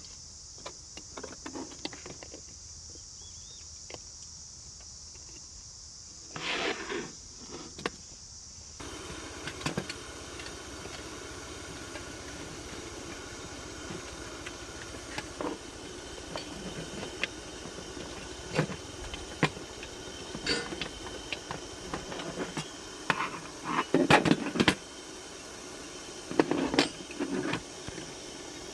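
Camp cooking handling sounds: scattered clicks, knocks and clatter of utensils and cookware being handled over a steady background hiss. The background changes abruptly about nine seconds in.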